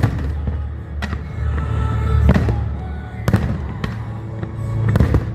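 Aerial fireworks shells bursting: five sharp bangs roughly a second apart over a continuous low rumble of further explosions.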